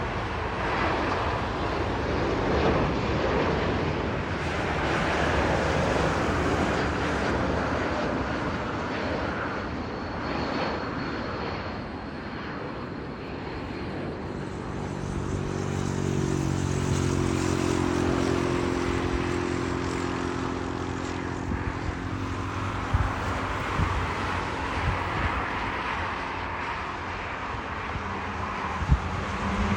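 Jet airliner engines: a steady rushing noise that eases slightly partway through, then a humming engine tone that slowly falls in pitch as the aircraft passes.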